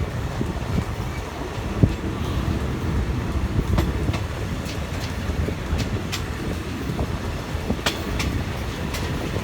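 Passenger train of the Thonburi–Nam Tok line running along the track: a steady low rumble with scattered short clicks from the wheels and carriage.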